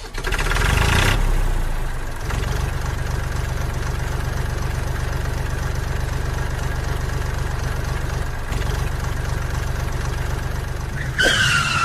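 Small motor of a homemade model mini tractor starting up and running steadily with a rapid low pulsing hum, louder for the first couple of seconds. Near the end a higher, slightly falling tone comes in over it.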